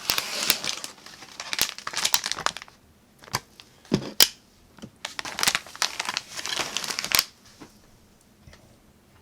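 Snack packaging crinkling and crumpling in two spells, with a few sharp knocks in between about three to four seconds in, then it goes quiet near the end.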